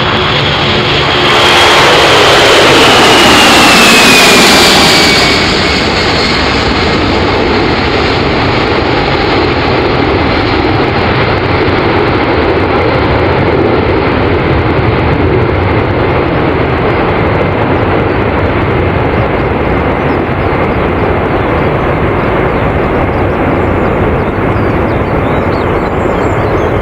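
Jet airliner engines running with a steady, dense rush. Between about one and a half and five and a half seconds in the sound swells louder, and a high whine glides down in pitch as the aircraft passes. It then settles back to an even rushing noise.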